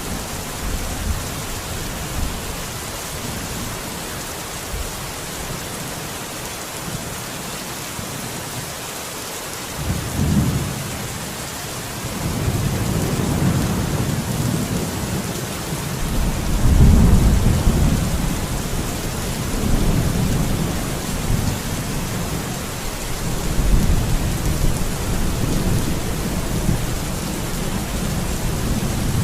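Steady rain with rolling thunder: about a third of the way in, low rumbles begin and swell and fade several times, loudest a little past the middle.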